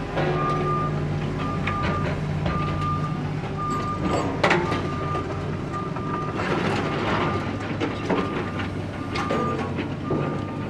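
Construction site ambience: a heavy machine's engine running under a reversing alarm that beeps a little faster than once a second, with loud metallic clanks and clatter, the sharpest about four and a half seconds in.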